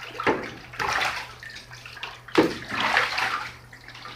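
A pet goose bathing in a tub, splashing and sloshing the water in several separate bursts.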